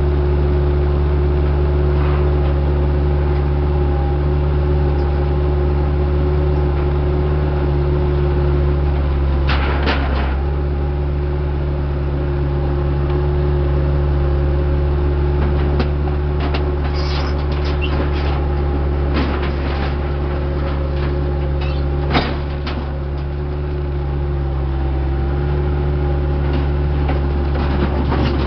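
Diesel engine of heavy equipment running steadily under a constant throttle, with scattered metallic clanks and knocks. A clatter comes about ten seconds in, a cluster of knocks follows later, and one sharp knock near the end is the loudest.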